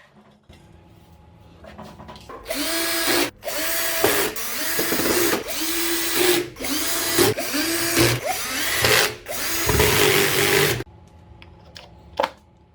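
Power drill run in a series of short bursts, its motor pitch rising as it spins up at the start of each burst.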